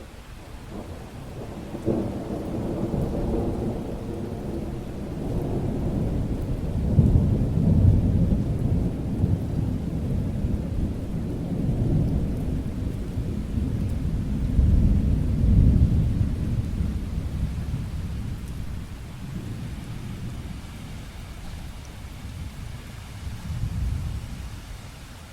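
A long rolling rumble of thunder over steady rain. It breaks in sharply about two seconds in, swells several times and dies away near the end.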